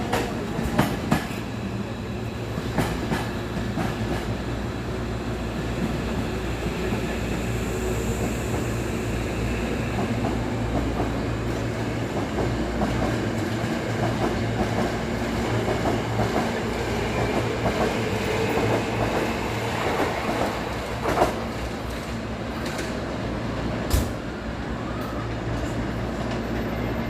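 Hankyu 7000 series electric train pulling out of the station: a steady running hum with wheels clicking over rail joints, and a few sharp clacks, two of them loud about 21 and 24 seconds in.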